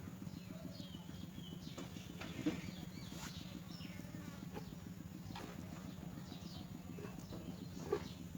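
Young myna giving short, faint chirps over a steady low hum, with two sharp clicks, one about two and a half seconds in and one near the end.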